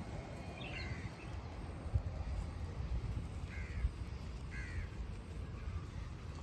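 A bird gives three short calls, the last two about a second apart, over a steady low rumbling noise.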